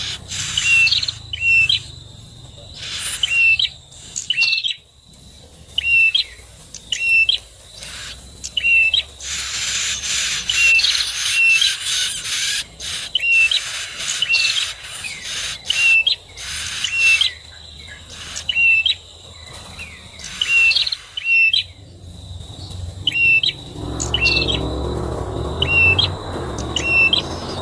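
Prenjak (prinia) calling: short, sharp chirps repeated over and over, about one or two a second in runs. A faint steady high tone runs underneath, and a low rumble comes in near the end.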